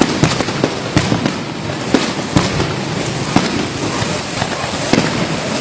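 Heavy downpour as a steady rushing hiss, broken by irregular sharp cracks, several a second.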